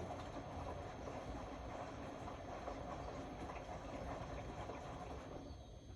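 Indesit Innex BWE 91496X washing machine running a wash, its drum turning with a steady sloshing, crackly noise of wet laundry and water that dies down about five seconds in as the drum stops.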